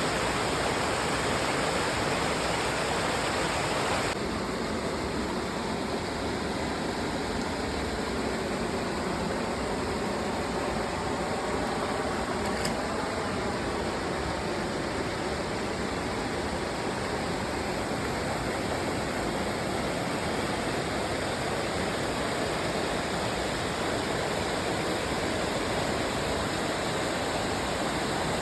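Waterfall pouring, a steady rushing of falling water; the sound drops slightly and changes tone about four seconds in.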